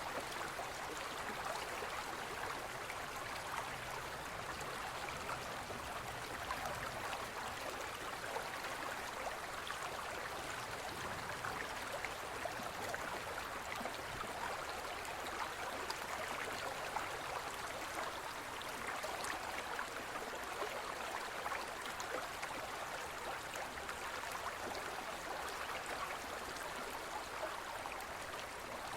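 Steady rushing and gurgling of a small forest river flowing over stones, even and unbroken.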